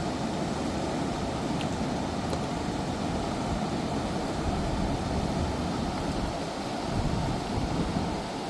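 Steady rushing of a fast mountain river, with wind gusting on the microphone.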